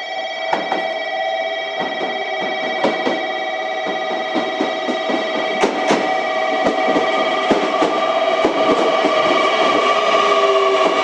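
JR Kyushu 817 series electric train: a whine of several steady electrical tones, with scattered clicks and knocks from the train. Near the end one tone creeps up in pitch and the sound grows a little louder.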